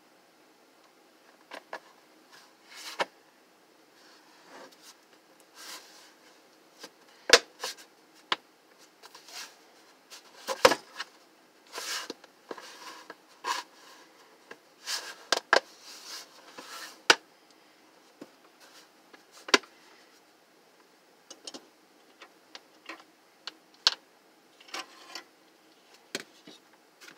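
Plastic parts of a Sunbeam space heater being handled and fitted back together: irregular sharp clicks and knocks with rustling between them, the loudest knocks scattered through the middle.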